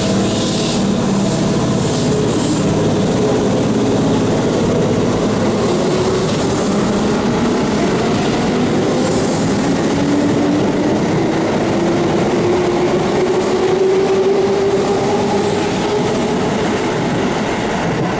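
Keihan 2400 series electric commuter train running, with wheel and rail rumble and a few clicks near the start. A motor whine rises slowly in pitch through the middle and later part, as the train gathers speed.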